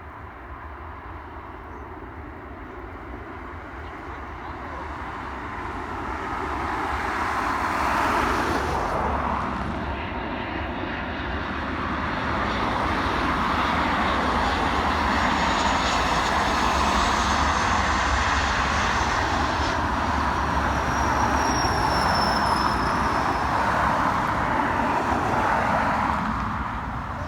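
Airliner engines running loud as the aircraft passes. The noise swells about eight seconds in, dips, then holds loud before fading near the end, with a high whine that falls in pitch midway.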